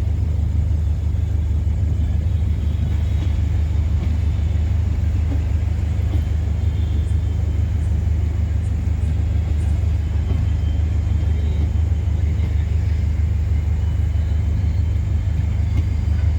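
Passenger train pulling into a station behind a WDP4 diesel locomotive: a steady, even low rumble with no change in level.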